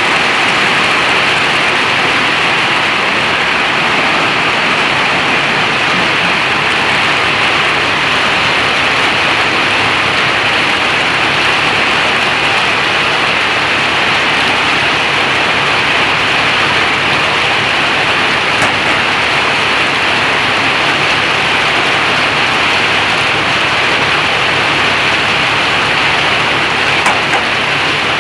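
Heavy hailstorm: hail and rain pounding down in a loud, dense, unbroken clatter, with a couple of sharper single hits in the second half.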